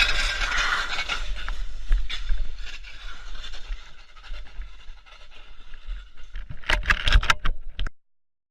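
Car noise heard through a dashcam, loud at first and fading over a few seconds, then a quick cluster of sharp knocks and scrapes before the sound cuts off suddenly.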